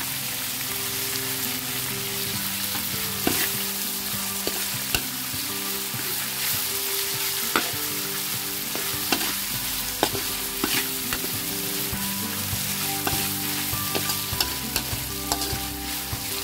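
Chicken and peeled shrimp frying in sambal in a hot pan, sizzling steadily while a spatula stirs them, with sharp scrapes and knocks against the pan every second or two.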